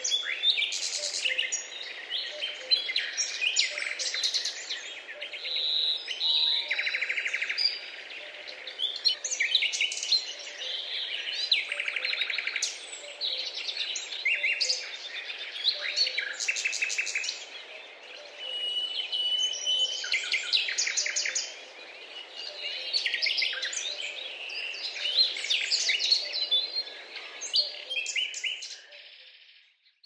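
Morning bird chorus: many birds singing and chirping at once, with quick trills, over a faint steady background hiss. It fades out at the very end.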